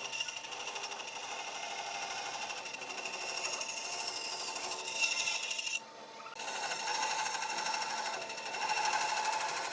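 A handheld power tool running on wood with a fast, rattling buzz. It cuts out briefly about six seconds in, then starts again.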